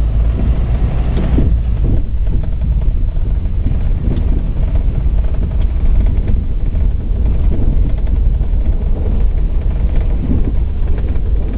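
Steady low rumble of a vehicle driving, its engine and tyres heard continuously.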